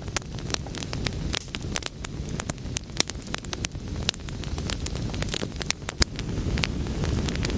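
Wood fire burning: frequent sharp crackles and pops over a low, steady rumble of flames.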